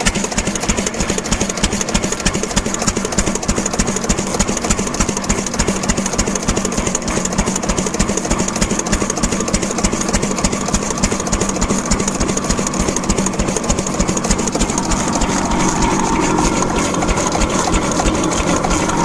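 Old stationary diesel oil engine running steadily with an even, rapid firing beat, growing slightly louder about fifteen seconds in.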